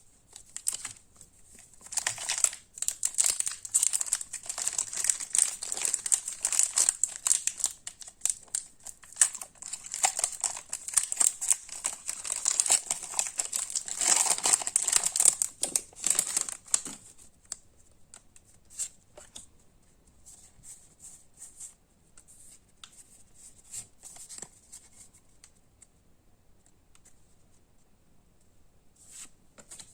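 Foil wrapper of a Pokémon card booster pack crinkling and tearing as it is opened, loud and busy for about fifteen seconds. After that come quieter scattered rustles and clicks as the cards are handled.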